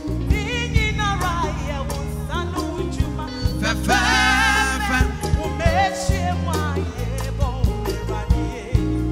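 Live gospel music: singing with wavering melodic runs over a band with steady bass and drums.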